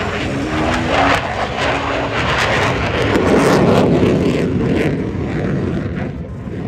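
Jet noise of F-16 Fighting Falcons flying past: a rushing sound that swells to its loudest about three and a half seconds in, then fades away.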